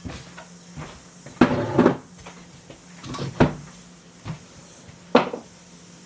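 Kitchen handling noises: a short clatter about one and a half seconds in, then a sharp knock a little past halfway and another near the end, as containers are picked up and set down on the bench while baking ingredients are fetched.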